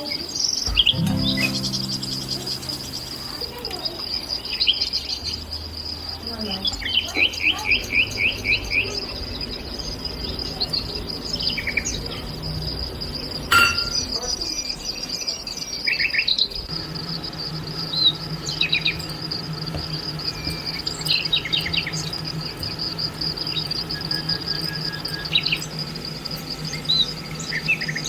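A steady high-pitched insect drone with birds chirping and calling at intervals, including a rapid trill about 7 seconds in. A sharp click about halfway through, and a low steady hum comes in past the middle.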